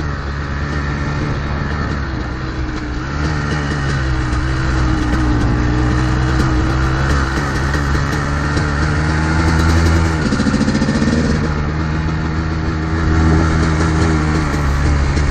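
Two-stroke dirt bike engine running at speed under changing throttle, its pitch shifting up and down, with a brief change in note about ten seconds in. The bike is a modded Kawasaki KDX220R single-cylinder two-stroke with an FMF exhaust.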